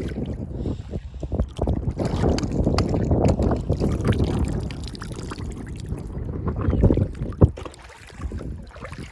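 Water sloshing and splashing with scattered clicks and knocks from oysters being handled, and a sharp knock about seven and a half seconds in.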